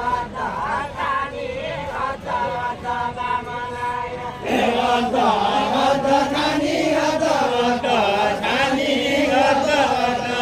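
A group of voices singing a Deuda folk song in a chant-like style, with no drums or other strikes heard. About four seconds in, a louder, lower-pitched group of voices takes up the line, as the two sides of the Deuda answer each other.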